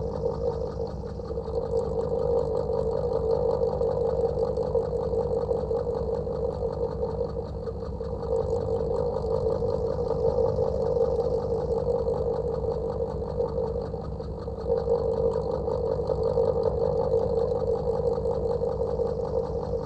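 Electric fan running steadily, a continuous motor hum with a fast, even pulsing that swells and eases every few seconds.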